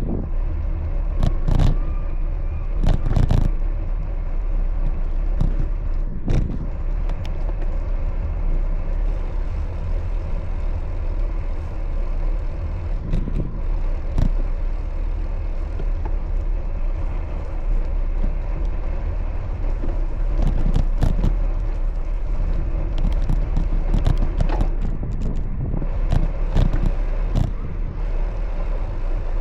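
Steady street traffic noise with a constant low rumble, broken by scattered sharp knocks and rattles.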